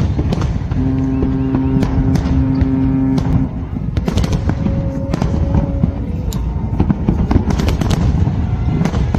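Fireworks display: a dense run of bangs and crackles over a continuous low rumble. A long, steady horn blast sounds about a second in, and a higher horn tone follows around the middle.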